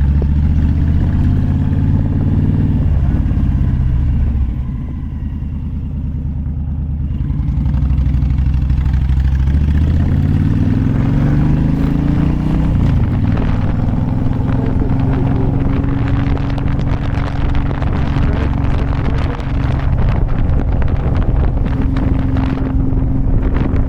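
Motorcycle engine running under way: it eases off about four seconds in, picks up and climbs in pitch around ten to twelve seconds in, then holds a steady pitch at cruising speed. Wind buffets the microphone during the steady stretch.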